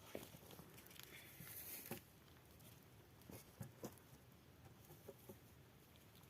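Faint, scattered light taps and clicks, with a brief soft hiss between about one and two seconds in.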